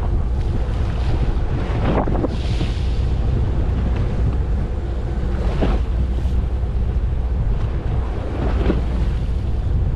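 Boat at sea: a steady low rumble of the boat's motor under wind buffeting the microphone and water washing past, with three brief louder swishes spread through.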